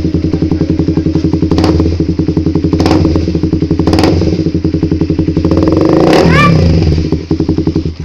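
Motorcycle running through a newly fitted Akrapovič GP-style aftermarket slip-on exhaust, a loud, evenly pulsing idle with a few quick throttle blips and a longer rev near the end. It then cuts off suddenly.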